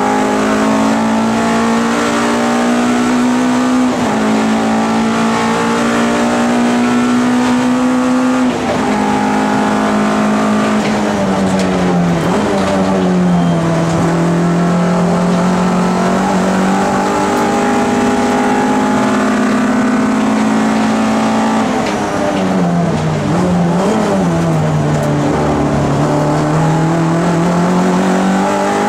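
MG ZR race car's four-cylinder engine at racing speed, heard from inside the cabin. Its pitch climbs and steps down twice with upshifts, then falls away twice as the car brakes and shifts down for corners, and climbs again near the end.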